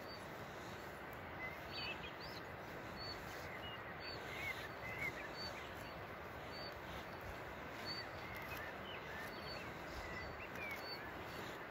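Songbirds chirping over a steady hiss, one of them repeating a short high note about once a second while others add brief twittering calls.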